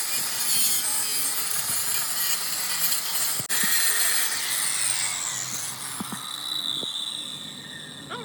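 A power tool working metal, giving a loud, harsh, hissing noise, with a steady high whine that comes in about five seconds in.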